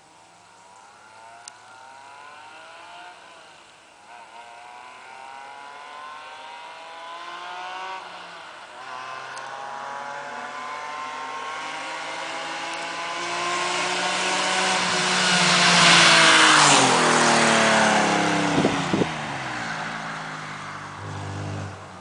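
Car with a Supersprint race exhaust and stainless race tubing accelerating hard through several gears, the engine note rising in steps and getting louder as it approaches. It is loudest about 16 seconds in, then the pitch drops as it passes and moves away, with a few sharp pops near the end.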